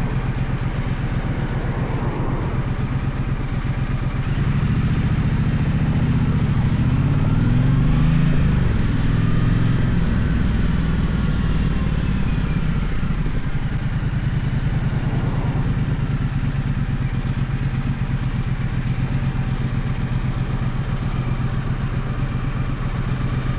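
Gaokin GK1200 motorcycle engine running: a steady note, then louder with the revs rising and falling for several seconds from about 4 seconds in, before settling back to a steady note.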